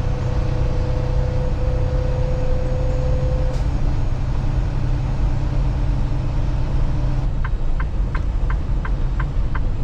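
Semi truck's diesel engine and road noise droning steadily inside the cab. About seven seconds in, a turn signal starts ticking evenly, about three ticks a second.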